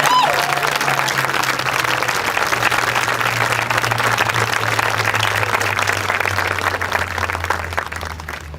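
Audience applauding at the end of a song, with a short whoop at the start and a low held instrumental note underneath; the clapping dies away near the end.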